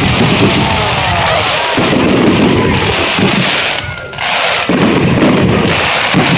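Fireworks display: a dense, continuous barrage of bangs and booms with crackling, dipping briefly about four seconds in.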